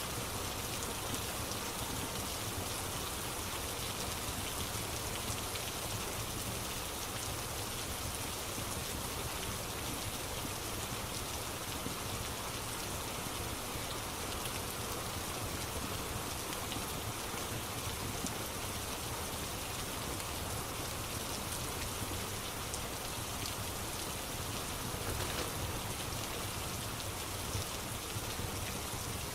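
Steady rain falling, an ambience track, with faint scattered crackles of a log fire mixed in.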